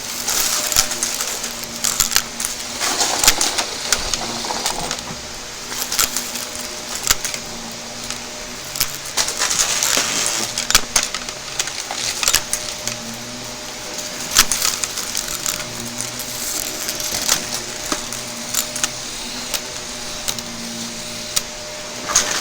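Shark vacuum cleaner running with a steady motor hum, with frequent sharp clicks and crackles as crunchy debris is sucked up.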